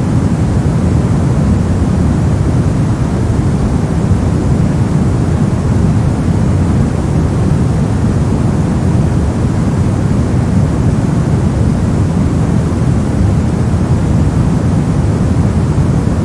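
Steady white noise for sleep or study, a deep, even rush with most of its weight in the bass and no changes, tones or breaks.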